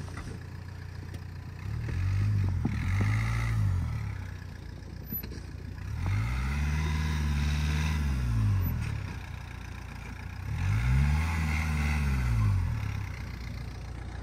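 A Dacia Duster's engine revving up and falling back in three bursts as the SUV pulls away and turns in deep snow: two short revs about two seconds in, then two longer ones, each with tyre-and-snow noise under the load.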